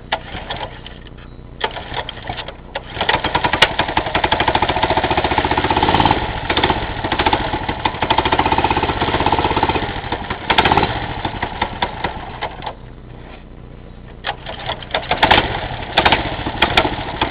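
Mitsubishi 6 hp single-cylinder mini bike engine running on throttle, revving up and falling back unevenly and sagging almost to a stall when the throttle drops. The engine won't hold an idle.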